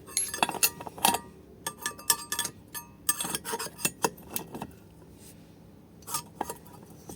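Metal tools and engine parts clinking and knocking together during hand assembly of a GX200-clone engine. A quick run of sharp, ringing clinks fills the first few seconds, then a single clink comes near the end.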